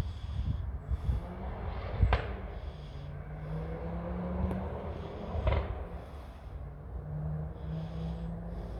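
Footsteps of a person walking outdoors, with low rumble from the moving microphone and two sharp knocks, about two and five and a half seconds in. A faint low hum comes and goes in the background.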